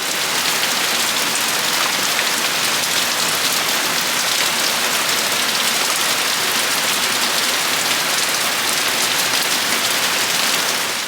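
Heavy rain falling steadily, an even dense hiss that fades out at the very end.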